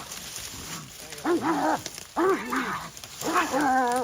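Coon-hunting hound bawling three times, each a drawn-out pitched bay, the last held longest near the end.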